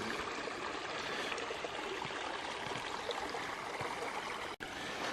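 Small woodland creek running steadily over a rock slide into a pool, with a brief gap in the sound near the end.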